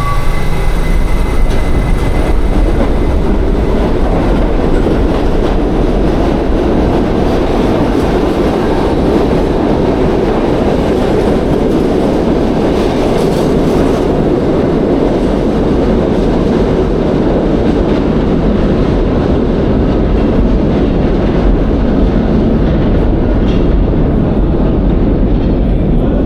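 New York City subway train running along the rails, a loud, steady rumble.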